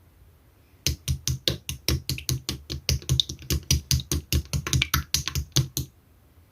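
Clear slime being pressed and worked by hand, making a fast, even run of crisp clicking pops, about six a second, for about five seconds, then stopping.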